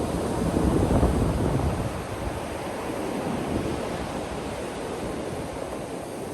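Ocean waves breaking and washing onto a beach: a louder surge in the first two seconds, then a steadier, softer wash of surf.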